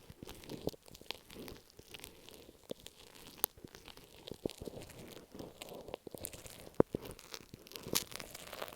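Masking tape stuck on an earphone microphone being scratched and handled right at the mic: irregular crinkly, papery scratching with sharp clicks, a couple of louder clicks near the end.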